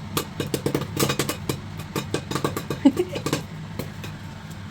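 Popcorn kernels popping in a covered pot: rapid, irregular sharp pops, several a second, over a steady low hum. The popped corn is pushing up the pot lid.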